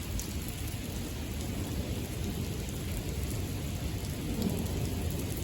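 Steady rain falling, with a low rumble of thunder underneath. A faint steady tone comes in near the end.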